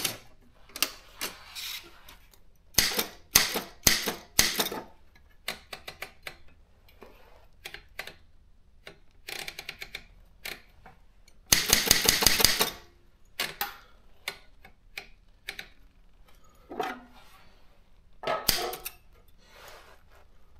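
Daro 20 typewriter being worked: irregular sharp key strikes and mechanical clicks, with a dense run of rapid clacks about twelve seconds in.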